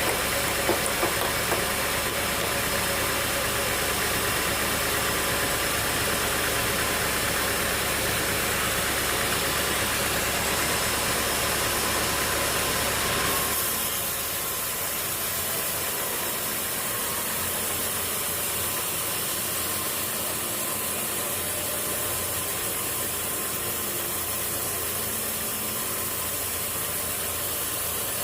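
A machine engine running steadily, with a few clicks at the start. About halfway through, the sound abruptly turns quieter and thinner and then carries on steadily.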